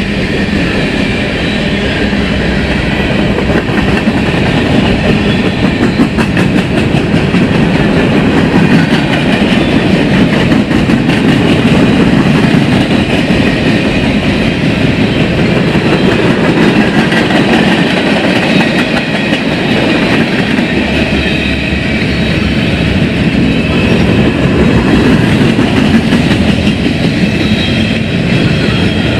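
Railroad cars rolling past close by: a loud, steady noise of steel wheels on the rails that runs on without a break.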